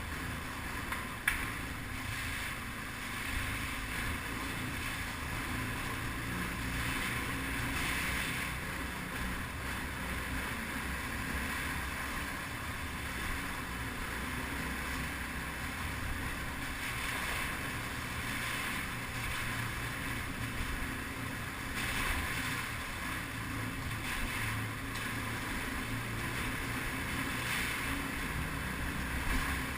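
Steady low engine drone with wind noise on the microphone, and a single sharp click about a second in.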